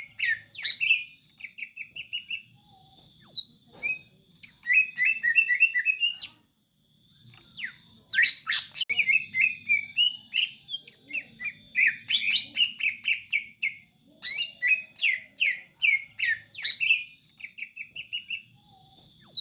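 Cucak ijo (green leafbird) singing a training song: fast runs of sharp chirps and whistled notes in repeated phrases, with a short pause about a third of the way in.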